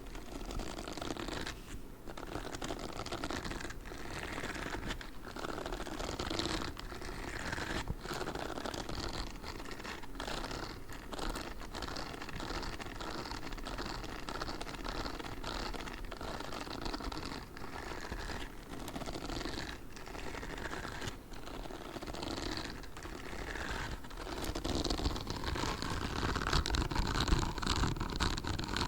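Grey spiky gloves rubbed and scratched close to the microphone: a dense, crackly scratching with many small clicks, growing louder over the last few seconds.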